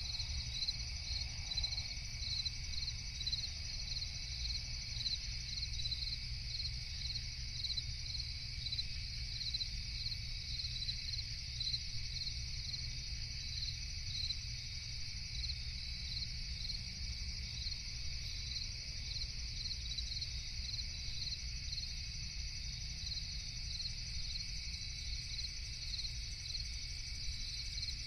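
Crickets chirping at night in a steady chorus, one voice pulsing regularly at about two chirps a second, over a low steady rumble.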